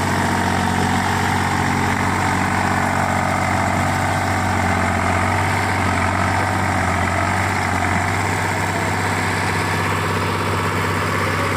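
Tractor diesel engine idling steadily, a low, even hum.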